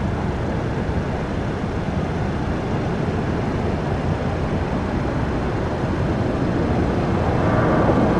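Jet airliner engine noise: a steady rumble that grows slowly louder towards the end.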